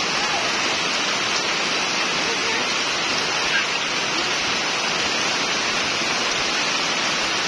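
Heavy rain pouring steadily: a dense, even hiss of rain coming down after a long dry, hot spell.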